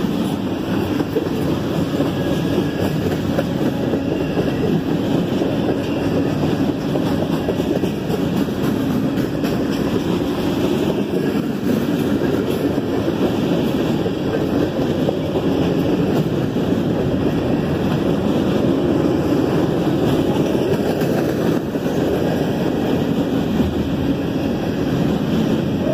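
Freight train's covered hopper and tank cars rolling past close by: a steady rumble of steel wheels on the rails.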